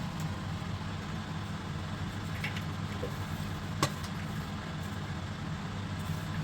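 Popcorn finishing in a covered pot: a single sharp kernel pop about four seconds in, with a couple of faint ticks just before it, over a steady low hum. The popping is sparse, as it is when the last kernels are going.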